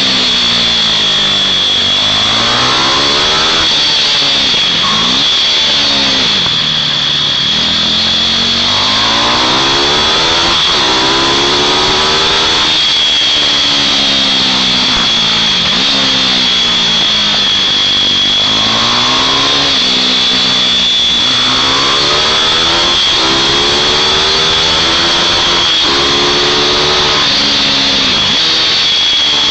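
Small mini bike engines racing around a track, their pitch rising under throttle and dropping off again every few seconds, with more than one engine heard at once. A steady high whine runs underneath.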